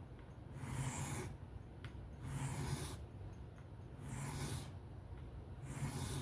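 Knife blade drawn in repeated strokes across a whetstone while the edge is being reprofiled: a rasping swish about every second and a half.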